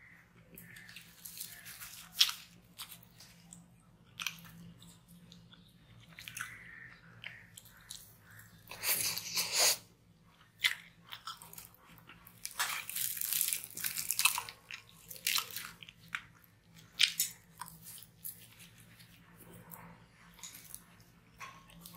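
Close-miked eating: tearing and chewing flaky porota flatbread with honey, irregular crunching and crackling clicks, with a couple of longer, louder stretches of crunching in the middle.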